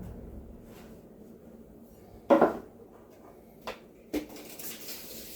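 Hand tools being handled against wood. There is one sharp knock a little over two seconds in, then two lighter clicks about a second and a half later.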